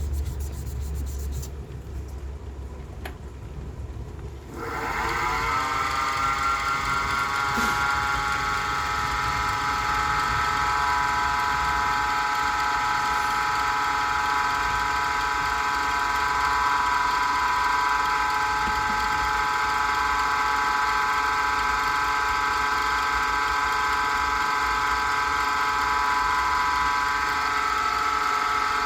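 Small wood lathe's electric motor switched on about four and a half seconds in, its whine rising in pitch as it spins up, then running steadily at speed.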